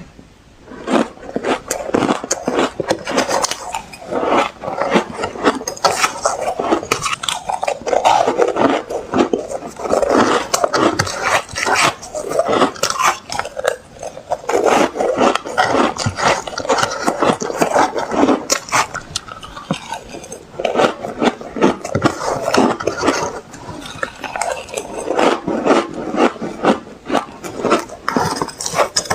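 Close-up crunching of ice being bitten and chewed: dense runs of sharp cracks coming in bursts every few seconds, with short lulls between them.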